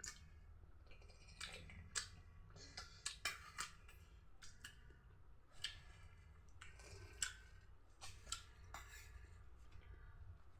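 Faint eating sounds: irregular soft clicks and crackles of chewing and handling puri, close to the microphone.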